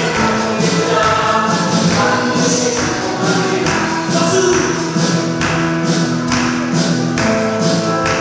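Church praise team performing a gospel worship song: group singing over a live band with a steady percussion beat.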